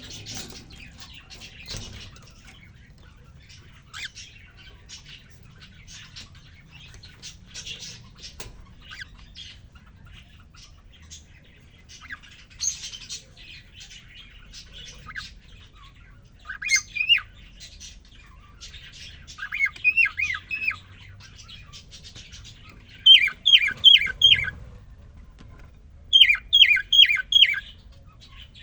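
Male cockatiel twittering and singing. Soft, scattered chirps for the first half, then from about halfway loud runs of quick whistled notes that rise and fall, about five in a row, repeated several times near the end.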